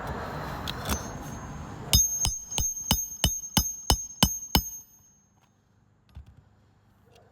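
Hammer striking a steel roof snake to drive a roofing nail under a shingle: nine sharp metal-on-metal blows, about three a second, each with a short high ring. They start after about two seconds of steady noise and stop near the five-second mark.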